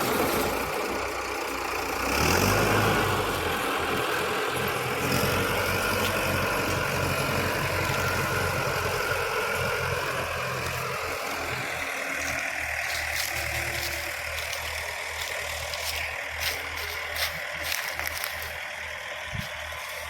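Engine of a sugarcane harvester running steadily. It swells about two seconds in, then slowly gets quieter, with a few sharp clicks near the end.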